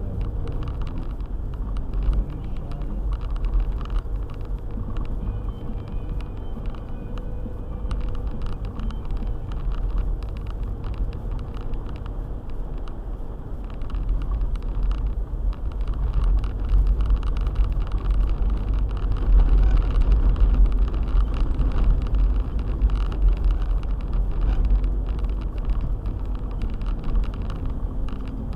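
Car driving on a snowy road: a steady low rumble of engine and tyres, growing somewhat louder midway.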